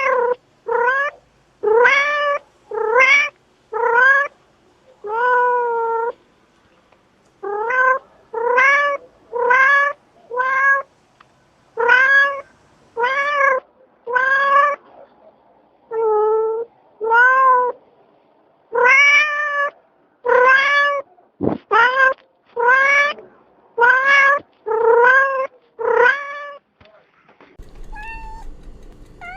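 A cat meowing loudly over and over, about one meow a second, each meow rising and falling in pitch, with two brief pauses; the meowing stops near the end.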